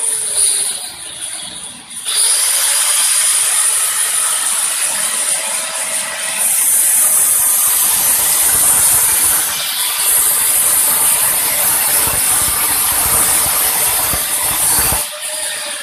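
TIG welding arc, a steady crackling hiss with a high buzz, struck about two seconds in and cut off abruptly shortly before the end.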